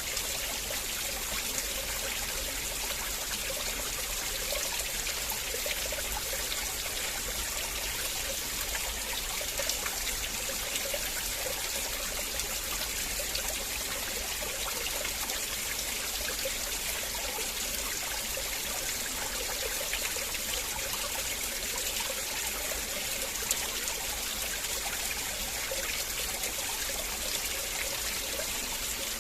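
River water flowing and trickling over stones: a steady, even rush with no breaks.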